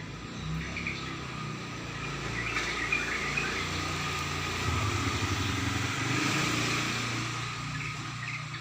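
A motor vehicle engine passing close by: a low engine hum that grows louder through the middle and fades away near the end.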